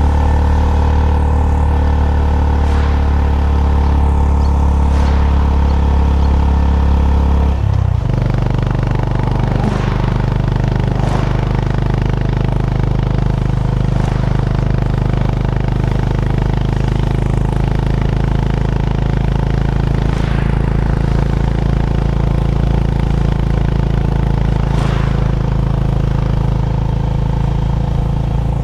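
Honda GB350's air-cooled single-cylinder engine running at a steady cruise, heard from the rider's position. About eight seconds in, its note drops suddenly to a lower pitch as it shifts up a gear, then it runs on steadily.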